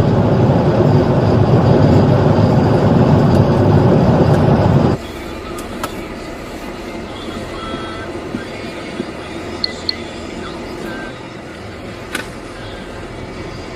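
Loud road and wind noise of a police car driving at high speed, cutting off abruptly about five seconds in. After that, a quieter steady background noise with a few faint short tones and clicks.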